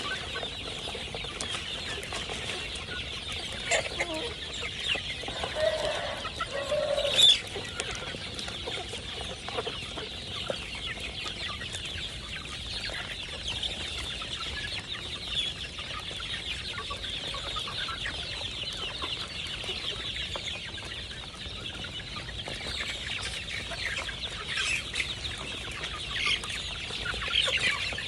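Village chickens clucking on and off, with a louder call about a quarter of the way in and a few more near the end, over a steady high-pitched buzz.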